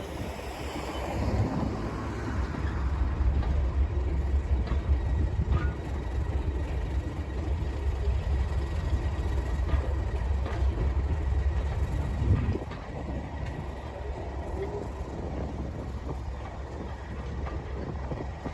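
Class 37 diesel locomotive's English Electric V12 engine working hard on a moving train: a heavy, steady low rumble that drops away suddenly about two-thirds of the way through.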